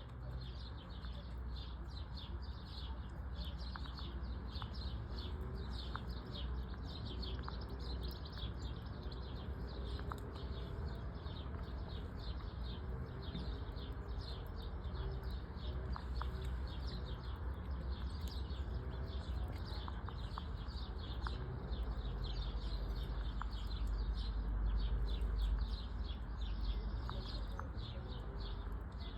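Many birds chirping in a dense, continuous chorus, with faint lower calls repeating about once a second and a low rumble that grows louder near the end.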